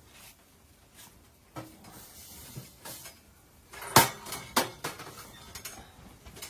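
Cookware and utensils knocking and clinking as they are handled, a scattering of separate strikes with the loudest about four seconds in.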